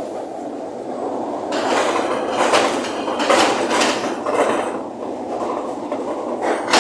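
Strong wind blowing in gusts, swelling and easing several times, with a sharp knock near the end.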